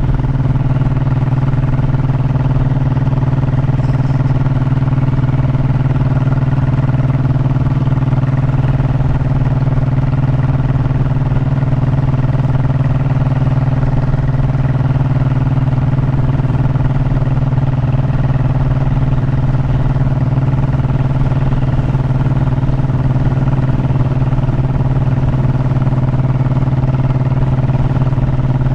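Honda motorcycle engine running at a steady cruising speed, a constant drone that holds one pitch throughout, over a low rumble.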